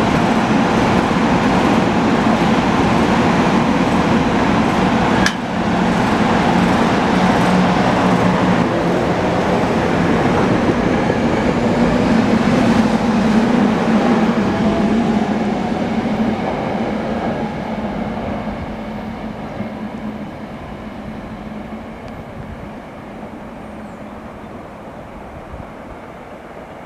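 SEPTA Silverliner IV electric multiple-unit train pulling out of the station right alongside, a steady rumble of wheels and running gear with a rising whine as it gathers speed. It fades steadily once the last car has gone past, about halfway through.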